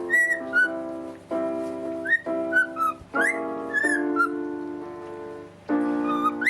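Parrot whistling short sliding notes, several in a row, over music with held chords that change about once a second.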